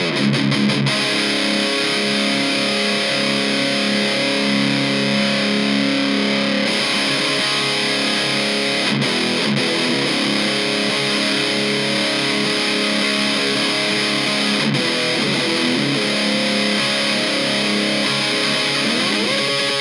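Electric guitar (Epiphone Les Paul Special VE) played through a Kokko KH8 High Gain Distortion pedal into a miked Fender Blues Junior amp: heavy high-gain distorted chords held and ringing out. A slide down the strings at the start and a slide up near the end.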